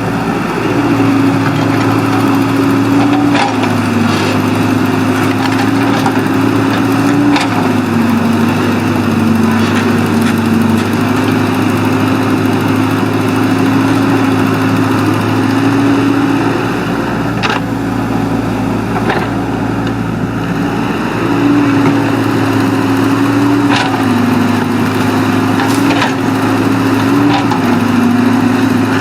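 Excavator's diesel engine working under varying load, its pitch stepping up and down every few seconds, with a few sharp cracks scattered through.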